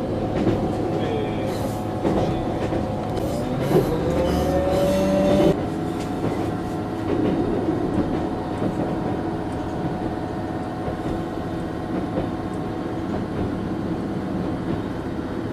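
Regional railcar running slowly on a single-track line, heard from inside the passenger car as a steady rumble of wheels and running gear with a few clicks. A rising wheel squeal comes in about four seconds in and cuts off suddenly about a second and a half later.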